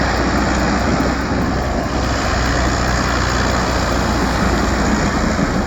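Tractor engine running with a steady, loud drone.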